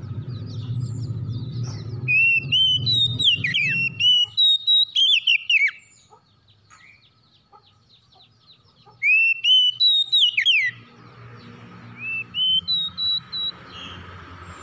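Oriental magpie-robin (kacer) singing loud, clear whistled phrases of rising and falling notes in several bouts. It pauses for about three seconds in the middle. A low background hum runs under parts of the song.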